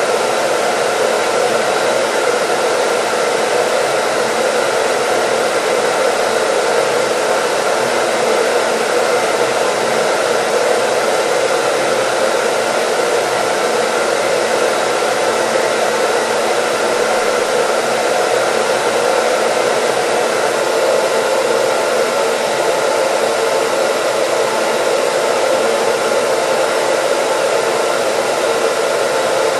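Hair dryer running steadily: a constant rush of air with a faint steady motor whine, unchanging in pitch and level.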